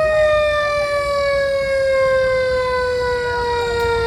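Fire truck siren in a long, slowly falling wail that keeps sliding down in pitch, over a steady low rumble.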